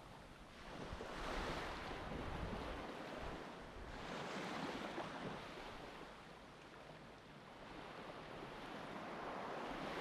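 Sea waves washing onto a beach, the rush swelling and fading every few seconds.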